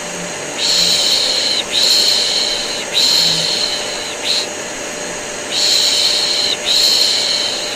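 Repeated 'shh' shushing, each shush about a second long with short breaks between, over the steady drone of an electric vacuum cleaner.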